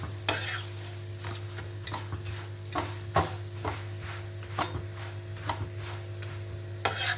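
Food sizzling in a pan on the stove, with a metal utensil clinking and scraping against the pan every half second or so, and a louder scrape near the end.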